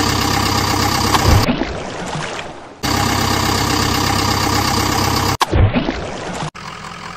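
A steady idling engine sound laid over the toy footage, cutting in and out abruptly. A heavy low thump comes about a second in and another about five and a half seconds in, and a quieter engine sound takes over near the end.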